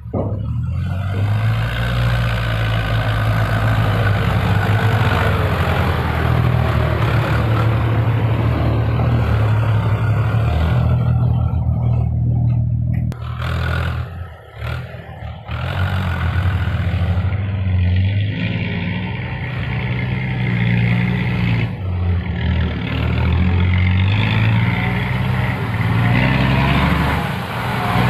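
Six-wheel dump truck's diesel engine running under load and revving, with the engine note easing off briefly about halfway through before picking up again.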